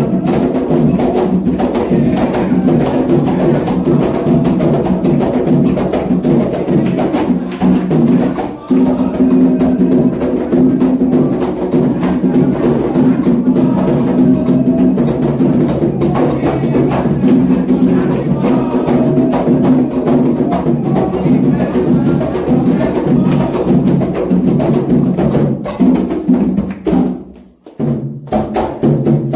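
Candomblé atabaque drums playing a fast, continuous rum rhythm with a metal bell keeping time. The sound briefly drops away near the end, then the drumming resumes.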